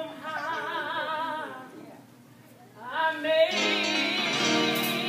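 A voice singing long, wavering notes with vibrato, stopping briefly and starting again; about three and a half seconds in, a held instrumental chord joins it underneath.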